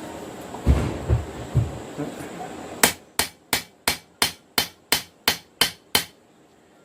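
Hand hammer striking hot steel on an anvil while drawing out a knife blade: a run of about ten evenly spaced ringing blows, roughly three a second, starting a little under three seconds in and stopping about a second before the end. Before them, three dull low thumps over a steady hum.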